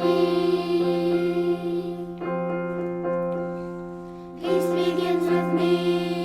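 Music: a keyboard playing held piano-like chords in a slow children's song, one chord fading away for about two seconds before the next comes in.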